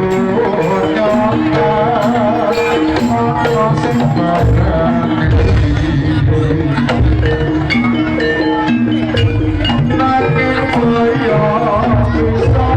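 Javanese jaranan ensemble music: hand-drum (kendang) strokes under repeating gong-chime notes, with a wavering melody line on top.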